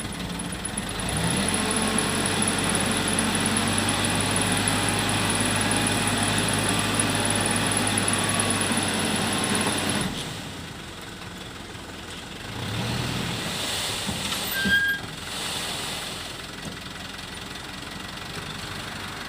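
Heavy-equipment diesel engine that revs up about a second in and runs hard and steady for several seconds, then drops back suddenly to idle. It revs up again more briefly later, with one sharp knock near the middle of that second rise.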